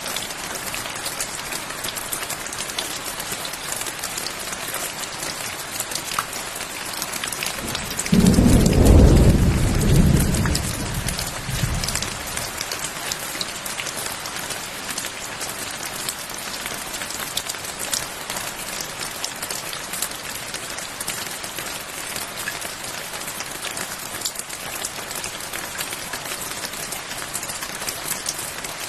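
Steady rain falling, with a single loud rumble of thunder that breaks in suddenly about eight seconds in and dies away over about four seconds.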